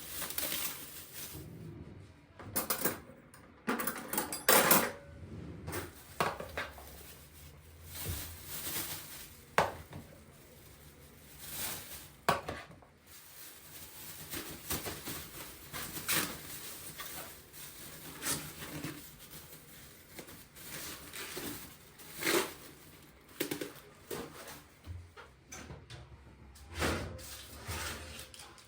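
Kitchen handling sounds: dishes and cutlery clinking and knocking at irregular intervals, with quieter rustling between them.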